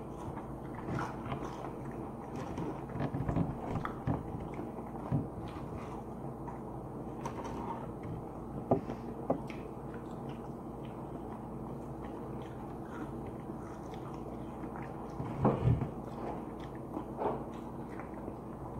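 Mouth sounds of people eating chicken wings and French fries: chewing and biting with scattered short crunches and clicks, the loudest about fifteen seconds in, over a steady low hum.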